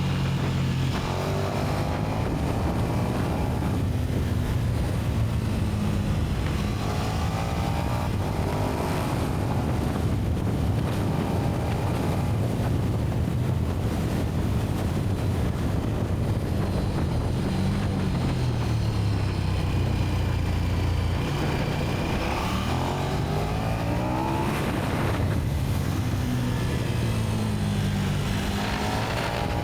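KTM 1290 Super Duke R's V-twin engine through its stock exhaust, ridden on the road: the engine note climbs and drops back several times as the rider accelerates and shifts, over a steady rush of wind and road noise.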